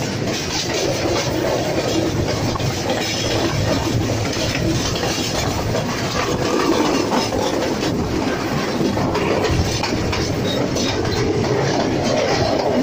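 Passenger train running along the track, heard from a carriage's open window or doorway: a steady rumble and rattle of wheels on the rails.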